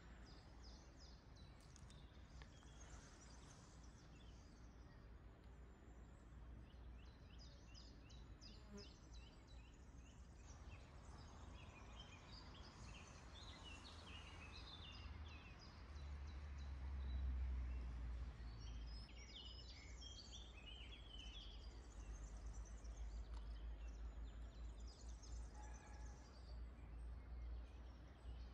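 Small birds singing faintly in repeated quick trills of high chirps, over a steady low rumble that swells briefly about two-thirds of the way through.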